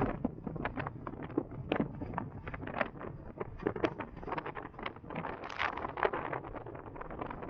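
Wind buffeting the microphone on a moving electric motorcycle, with no engine note, as a steady low rumble. Over it come frequent irregular clicks and knocks, several a second.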